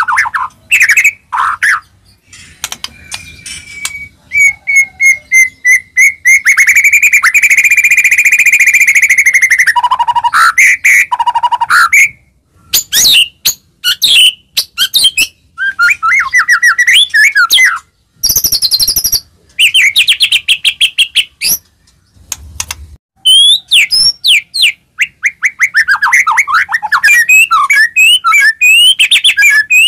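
White-rumped shama singing loudly: a varied, fast-changing song of clear whistles, rapid trills and harsh rattling chatter, phrase after phrase with short breaks between.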